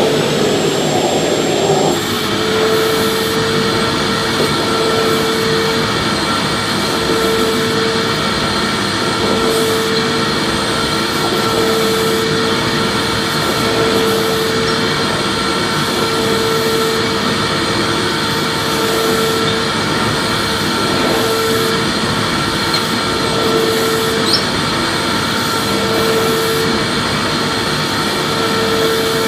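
Vacuum cleaner running continuously: a steady rushing motor-and-airflow noise with a hum that swells and fades about every two seconds.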